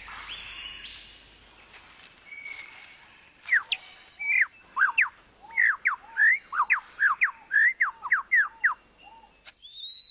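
Superb lyrebird singing: a rapid run of loud, clear whistled notes that sweep sharply up and down, starting about three and a half seconds in, with fainter bird whistles before it.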